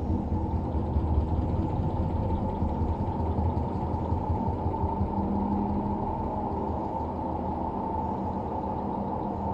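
LG washer-dryer drum turning with a steady low rumble from its worn drum bearings, which have run dry of grease because water got past the drum seal. A steadier hum joins the rumble about halfway through.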